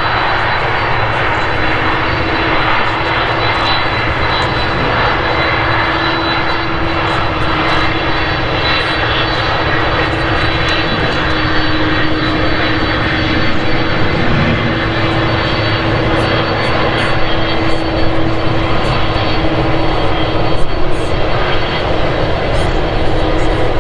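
Boeing 767-300 jet engines at takeoff power: a loud, steady jet rumble with a droning hum, getting a little louder and rougher near the end.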